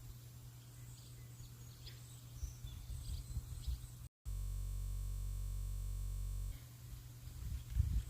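Outdoor ambience: faint bird chirps over a low, gusty rumble. About four seconds in, the sound drops out for a moment and a steady buzzing tone replaces it for about two seconds, a glitch in the recording, before the ambience returns.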